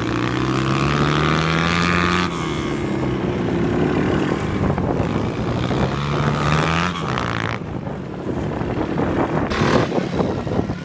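125cc pit bike engine being ridden hard. It revs up in pitch for a couple of seconds and falls off, then revs up again about five seconds in before the throttle is closed.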